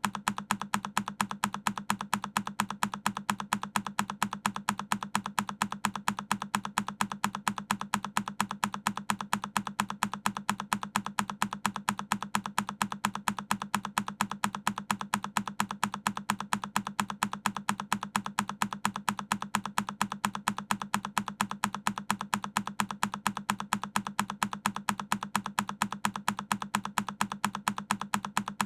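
A single key on a Keychron K10 mechanical keyboard being pressed over and over in a looped recording: sharp, evenly spaced clicks several times a second, each sounding the same.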